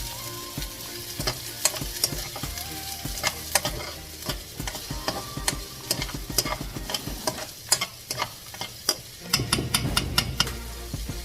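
Food sautéing in oil in a frying pan, with a steady sizzle, while it is stirred and the spatula repeatedly scrapes and knocks against the pan.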